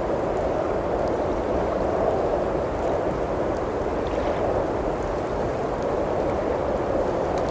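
Steady blizzard wind rushing, with faint scattered crackles from a wood fire in a fireplace.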